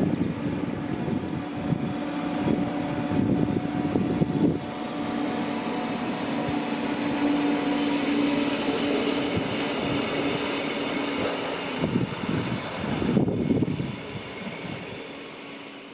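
Stadler GTW electric regional train pulling away and running off into the distance: the wheels rumble on the rails under a steady low hum. There are a few louder rattles about three-quarters of the way through, and then the sound fades away near the end.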